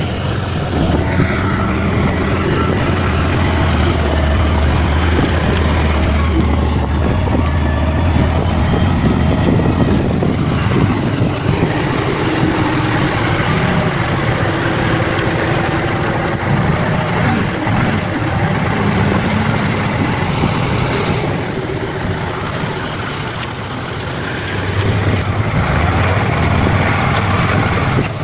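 Bulldozer's diesel engine running steadily with a deep low hum; it eases off a little about three-quarters of the way through and picks up again near the end.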